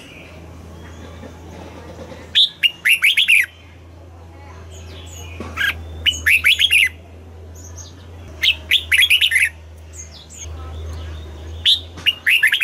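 Red-whiskered bulbul singing: four short, quick song phrases of bright whistled notes, about one every three seconds. A low steady hum lies underneath.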